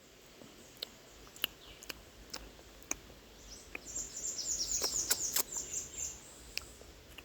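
A bird's rapid, high-pitched chirping chatter for about two seconds past the middle, with scattered sharp clicks before and after it.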